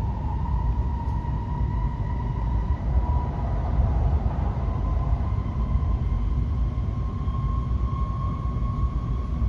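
N700S shinkansen accelerating away from the station, heard from inside the car: a steady low rumble with a motor whine that slowly rises in pitch as the train gathers speed.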